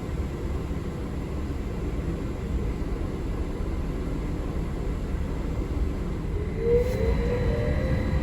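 Steady low rumble and road noise inside a moving city bus or trolleybus. Near the end a slowly rising whine comes in as the vehicle speeds up, with a single click just before it.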